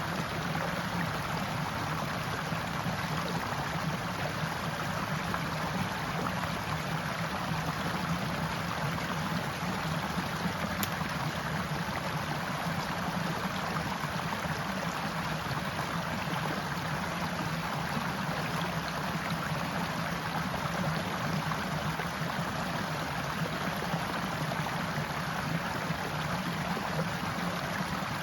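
A forest stream running steadily, water flowing and gurgling over rocks in a continuous rush.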